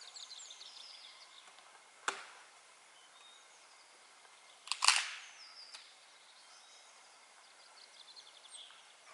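Small birds chirping in quick high trills, several of them falling in pitch. There is a sharp click about two seconds in and a louder knock just before the five-second mark.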